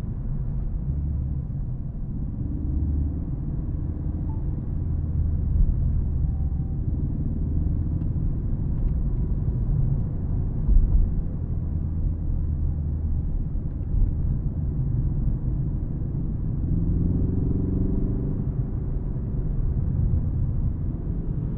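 Ford Focus ST engine running as the car is driven, with a steady low rumble of engine and road noise. The engine note climbs briefly a couple of times, most clearly near the end.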